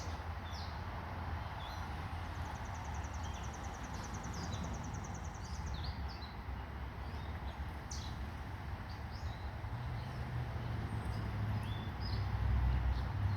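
Backyard songbirds calling, with scattered short high chirps and a high, rapid trill lasting about three seconds early on. A low rumble, like distant traffic, grows louder near the end.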